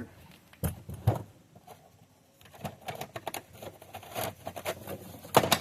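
Irregular clicks and knocks of small items being handled and rummaged through, with a louder clatter near the end.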